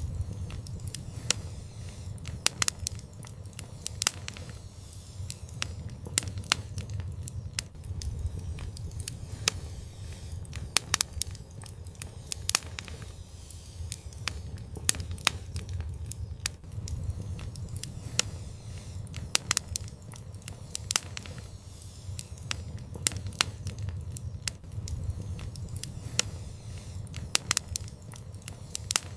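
Fire in a fireplace crackling, with frequent irregular sharp pops and snaps over a low, steady rumble of the flames.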